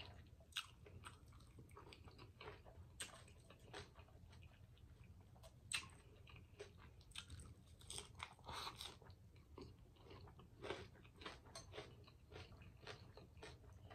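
Faint chewing of food close to a microphone, with scattered small crunches and clicks, a little louder about six and eight and a half seconds in.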